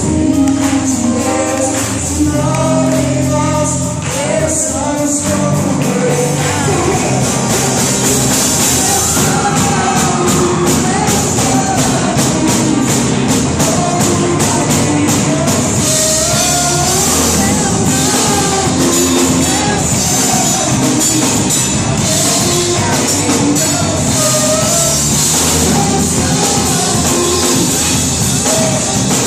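Live gospel worship music: a band with singing voices and tambourine, the beat growing denser with cymbals about nine seconds in.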